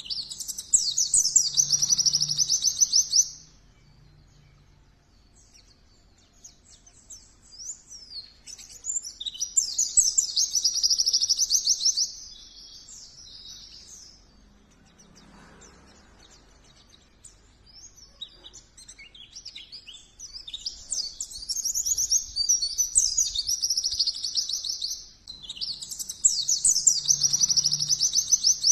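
White-eye (pleci) singing in long, rapid, high-pitched twittering bouts, four of them, each a few seconds long, with quiet gaps between.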